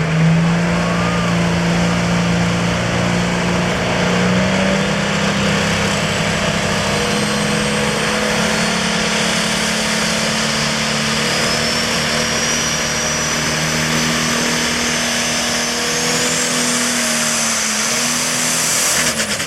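Super Farm class pulling tractor's turbocharged diesel at full power through a pull. Its engine note climbs slowly, and a high turbo whistle rises sharply late in the run. Just before the end the engine cuts off suddenly, as the run ends in what is called a real tough break, a likely mechanical failure.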